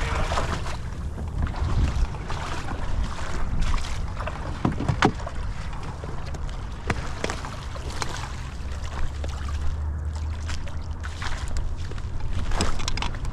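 Water sloshing around hunters wading in waist-deep water, over a steady low wind rumble on the microphone, with a few sharp knocks.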